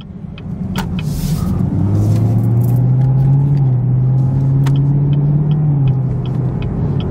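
Chevrolet Camaro ZL1's supercharged V8, heard from inside the cabin, pulling through a U-turn: the engine note builds over the first two seconds, holds steady, then eases off near the end.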